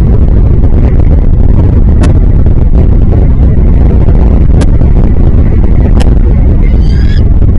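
Heavy low wind rumble buffeting the microphone, broken by a few sharp clicks. Near the end comes a short, high chattering bird call.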